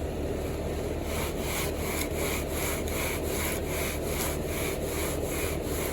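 Wooden screed board sawed back and forth across wet concrete, a rhythmic scraping of about two to three strokes a second that starts about a second in, over a steady low engine hum.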